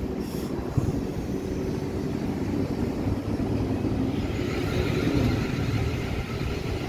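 Train at a station: a steady low rumble, with a brighter, higher noise joining about four seconds in.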